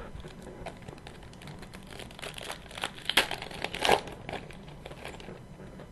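Trading card pack wrapper being torn open and crinkled by hand: a run of crackly rustling that is loudest in the middle.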